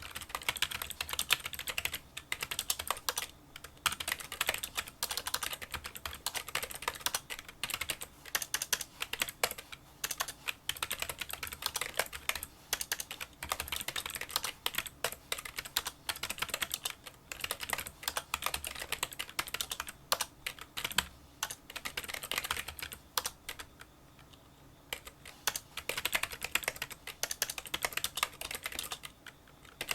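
Fast touch-typing on a Kinesis Freestyle Solo split keyboard with membrane key switches: a rapid, continuous patter of small, light key clicks, pausing for about two seconds a little past the two-thirds mark.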